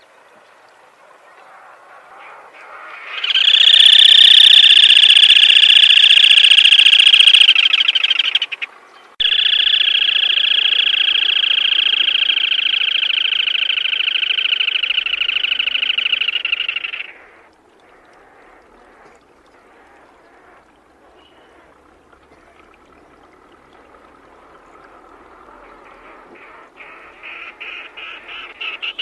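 Black-tailed crake calling: two long, fast trills at a steady pitch, about five and eight seconds long, with a brief break between them. Then comes a quieter stretch, and the calling builds again near the end.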